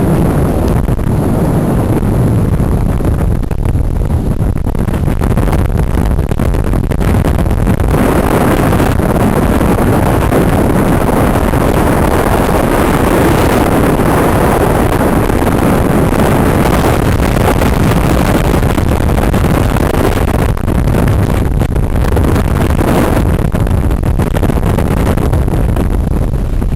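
Hurricane Katrina's wind rushing and buffeting the microphone, a loud continuous roar of gusts that blows hardest through the middle.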